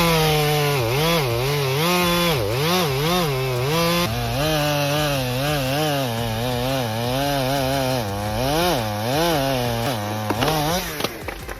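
Two-stroke chainsaw cutting into a large cedar trunk, its engine speed repeatedly dipping and recovering as the chain bogs down in the wood. The saw cuts off near the end, followed by a few sharp snaps.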